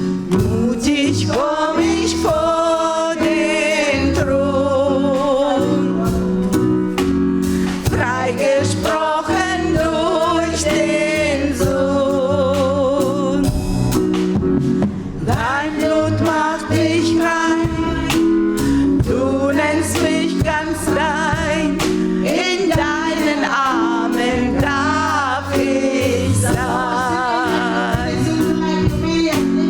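Live gospel choir singing with band accompaniment: several voices with wide vibrato over a steady bass line and a regular drum beat.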